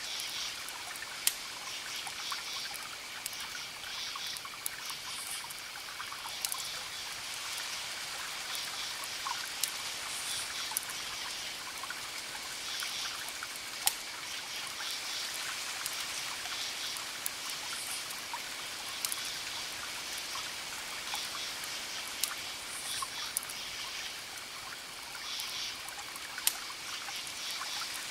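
Wood fire crackling: scattered sharp pops every second or two over a steady hiss.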